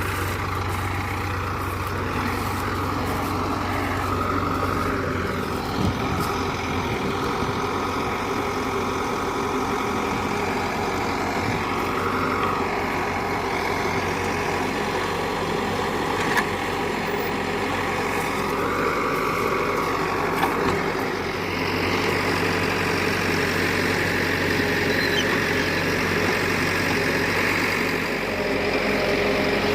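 Tractor engine running steadily, with a few light knocks and a change in its note about two-thirds of the way through.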